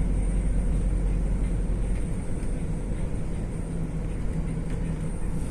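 Steady low rumble of a moving vehicle, running evenly without change.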